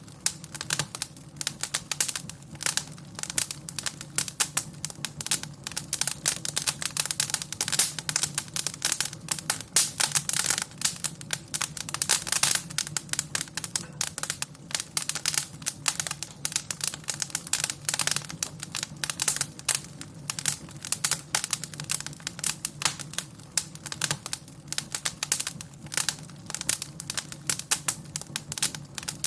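Wood fire crackling in a fireplace: dense, irregular snaps and crackles over a faint steady low hum.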